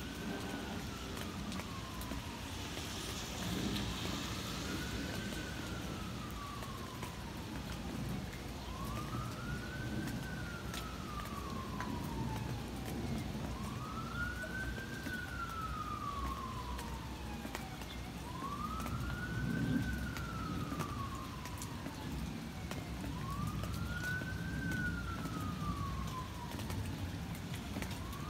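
Emergency vehicle siren in a slow wail, each cycle rising quickly and falling slowly, repeating about every four and a half seconds over steady background noise.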